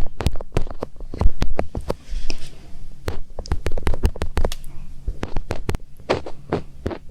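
ASMR finger ear-cleaning: fingertips rubbing and scratching in a microphone's ear, close up, giving a fast, irregular run of short scratchy strokes with low rumbling thumps.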